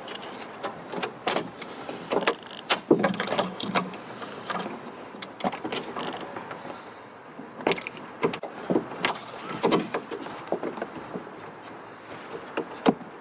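Plastic car trim panel being handled and pushed into place: irregular clicks, knocks and plastic rubbing sounds.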